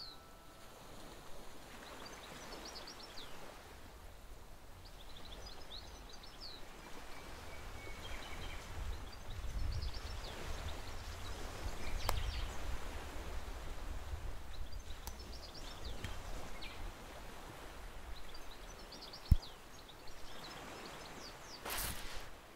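Beach ambience: small birds chirping in short groups every few seconds over a low rumble of wind and surf that swells in the middle. A single sharp thump comes near the end and is the loudest sound.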